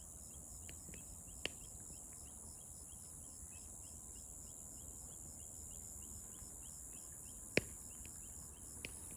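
Night insects chirping in a steady chorus: a continuous high trill with short chirps repeating about three or four times a second. Two short sharp clicks stand out, one about a second and a half in and a louder one near the end.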